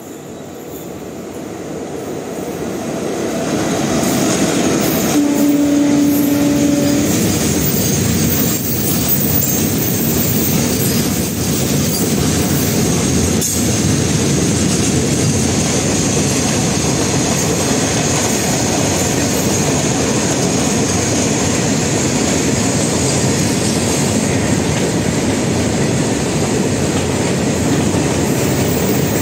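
Twin WAG-7 electric locomotives hauling a long rake of loaded coal wagons past, the rumble growing louder over the first four seconds and then holding as a steady clatter of wheels on rail. A brief steady tone sounds about five seconds in.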